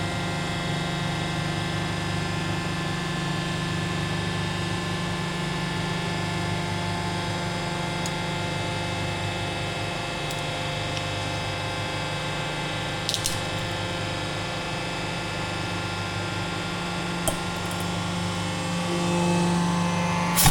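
500-ton hydraulic press's power unit running steadily, a motor-driven pump humming on several steady tones. A few faint clicks come through, and it swells slightly near the end.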